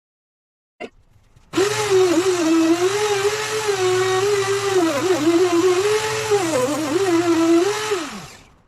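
A high-speed electric power tool runs, its motor pitch dipping and recovering again and again as it bites into the material, then winding down near the end.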